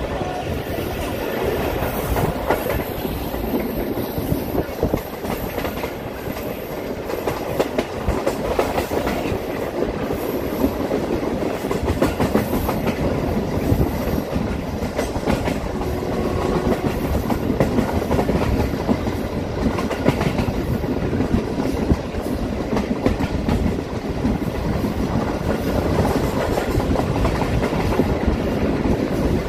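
Passenger train running at speed, its wheels clattering over the rail joints with a steady rumble, heard from inside a moving coach.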